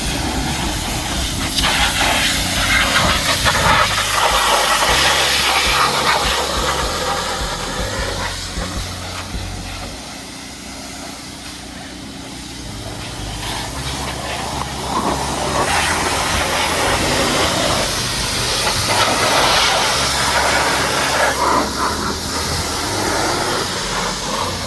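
Pressure washer spraying water on a car, a loud hiss that swells and fades as the jet moves, dropping for a few seconds midway.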